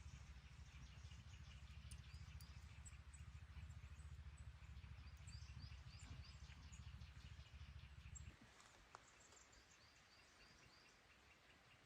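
Faint low wind rumble on the microphone that cuts off about eight seconds in. Through it come faint, quick, high descending chirps from a small bird.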